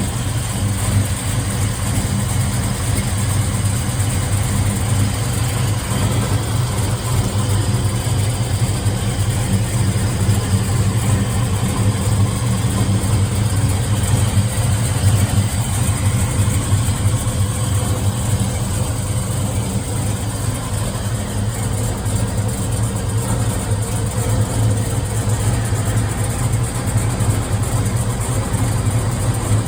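Chevrolet Chevelle SS's 427 big-block V8 idling steadily at an even level.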